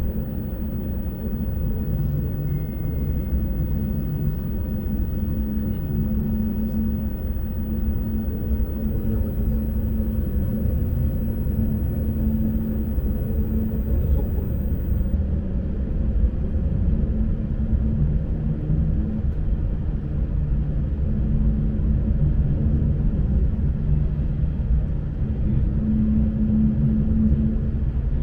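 Lastochka (Siemens Desiro RUS) electric train running, heard from inside the carriage: a steady low rumble of wheels on the track, with a motor hum that comes and goes and shifts in pitch several times.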